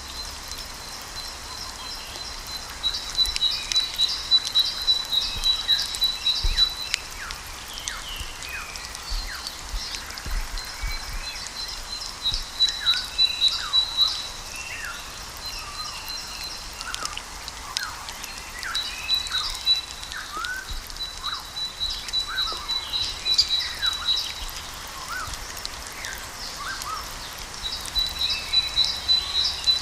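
Several birds singing and calling: a rapid high trill comes in bouts of a few seconds, four times, while many short, downward-sliding whistled notes sound between them.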